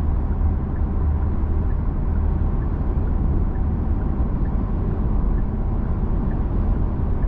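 Steady road and tyre noise with a low rumble, heard inside the cabin of a Genesis G80 cruising at motorway speed. A faint regular tick comes a little under once a second: the turn signal, set for an automatic lane change.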